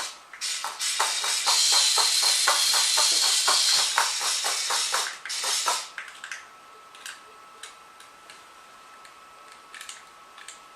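Remote-controlled toy spider scuttling, with a rapid clattering of its legs and a whirring motor; it stops sharply about six seconds in, leaving a faint steady hum and a few light ticks.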